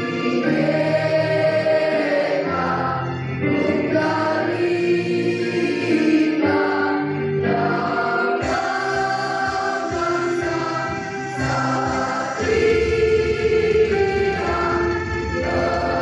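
A school choir singing a song in several voice parts, with a low accompaniment line under the voices.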